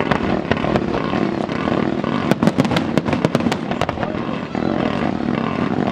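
Fireworks going off: scattered sharp bangs, then a rapid cluster of cracks about two to three and a half seconds in, over a steady rumbling wash of noise.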